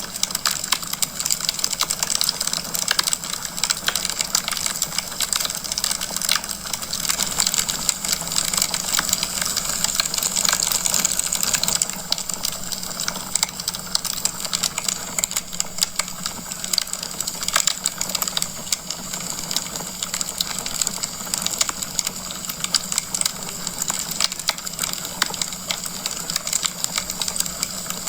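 Wood fire crackling in a fireplace: a dense, continuous stream of small pops and snaps over a steady hiss, with a low steady hum underneath.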